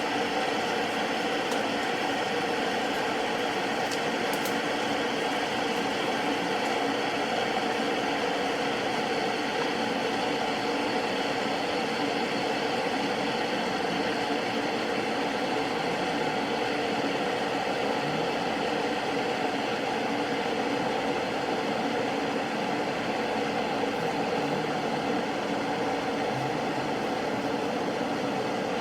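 TOPWIT 2-litre stainless steel electric kettle heating water as it nears the boil, giving a steady rushing noise that holds without a break.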